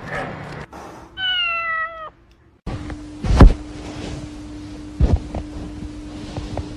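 A cat meows once, a slightly falling call lasting about a second. After a sudden break, a few heavy thumps sound over a steady hum; the loudest comes about halfway through.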